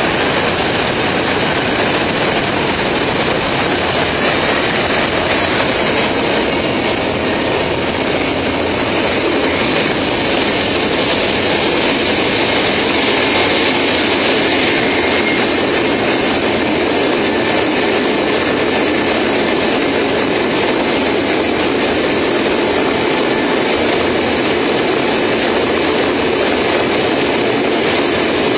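Airliner landing-gear noise heard right at the gear: a loud, steady rush of wheel rumble and airflow that holds without a break.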